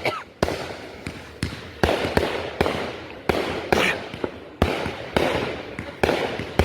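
Consumer fireworks going off in a quick, irregular string of about a dozen sharp bangs, each fading off briefly before the next.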